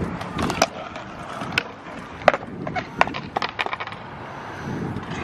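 BMX bike riding a concrete skatepark: tyres rolling on concrete, with sharp clacks and knocks from take-offs, landings and parts rattling, the loudest a little past two seconds and three seconds in.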